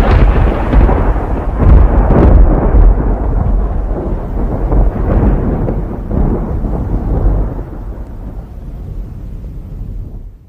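Thunder sound effect: a long, deep rolling rumble with a few sharper cracks in the first few seconds. It slowly dies away and is cut off abruptly at the end.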